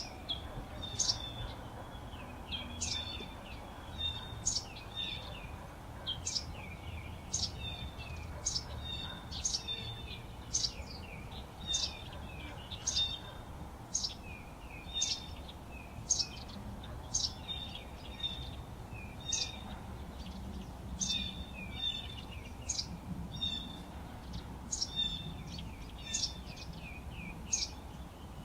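Songbirds chirping: a steady run of short high chirps, about one to two a second, over a faint low background rumble.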